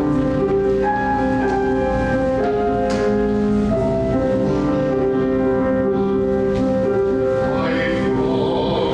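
Keyboard instrument playing a slow hymn-like tune in long held chords.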